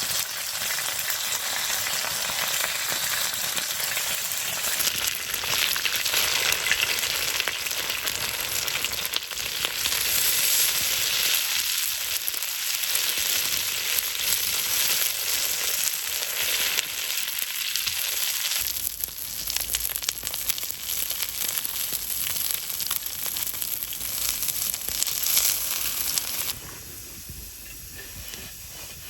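Food frying in a hot pan with a steady, dense sizzle and crackle. Near the end it suddenly drops to a much quieter sizzle.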